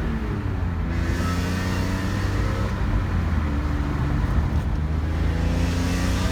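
BMW E46 M3's S54 inline-six running under way through a gutted muffler, its engine note drifting up and down with the throttle.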